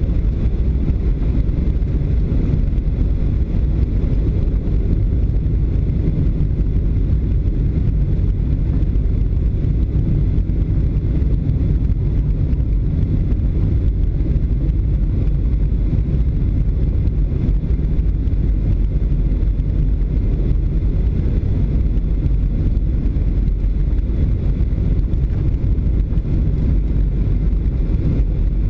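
Steady low cabin roar of a Boeing 737 airliner in flight on approach, engines and airflow heard from inside the cabin, with a faint steady high whine over it.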